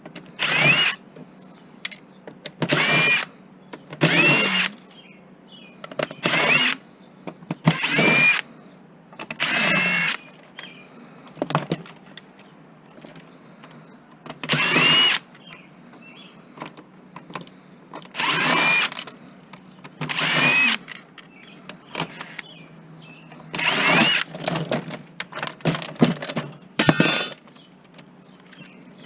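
Power screwdriver spinning in short bursts, about a dozen, its motor whine rising as each one starts: screws being driven out of an electronic device's casing as it is stripped for scrap.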